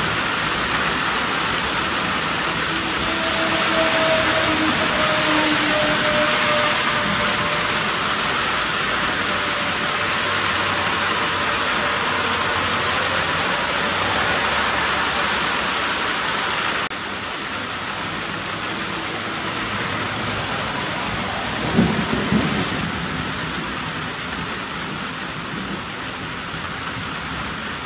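Steady downpour of rain hissing down, with a short low thump about three-quarters of the way through.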